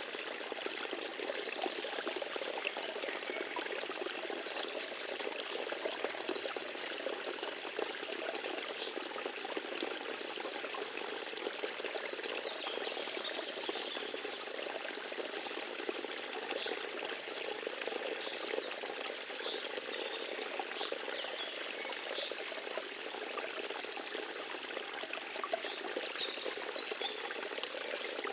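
Forest stream flowing with a steady trickle and pour of water.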